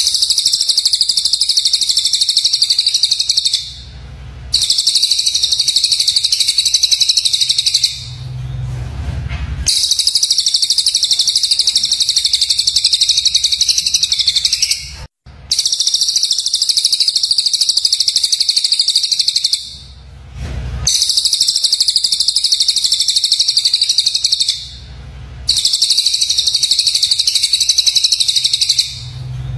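Songbird calls from a bird-training (masteran) recording: dense, harsh, high-pitched rapid chatter in stretches of a few seconds, broken by short pauses about every four to five seconds.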